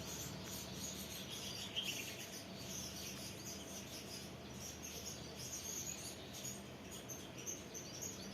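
House sparrows chirping: many short, high chirps scattered throughout over a steady background hiss.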